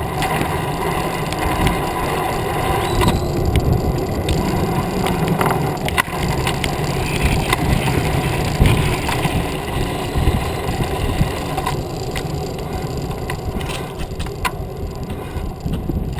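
Riding noise from a cruiser bicycle under way: a steady low rumble of rolling tyres and air, with scattered sharp rattling clicks from the bike.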